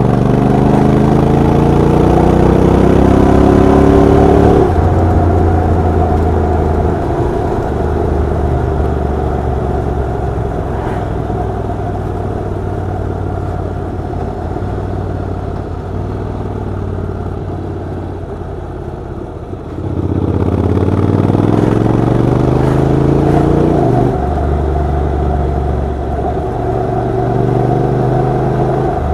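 Honda NC750X's parallel-twin engine and exhaust under way, accelerating with rising pitch for the first few seconds until a gear change drops it. It then runs steadier and eases off. About twenty seconds in it pulls hard again, with another shift a few seconds later.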